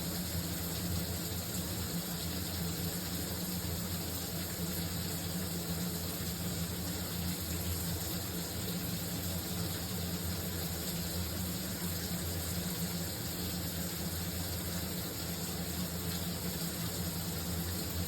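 Shower running: a steady, unbroken spray of water with a low rumble underneath.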